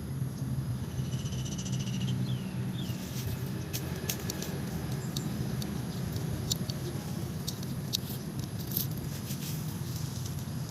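Nakamura TB33 two-stroke brush cutter running steadily at low speed, with scattered sharp clicks. A bird chirps a few times about a second in.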